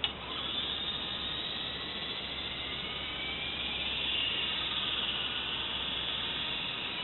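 Double Horse 9053 RC helicopter's electric motors whining with the rotor whir, a high whine that drifts up and down in pitch with the throttle.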